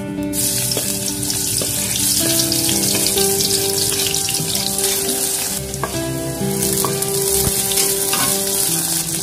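Sliced shallots hitting hot cooking oil in a wok and sizzling hard as they fry. A metal spatula clicks and scrapes as it stirs them. Chopped green chilies are tipped in partway through, and the sizzling goes on.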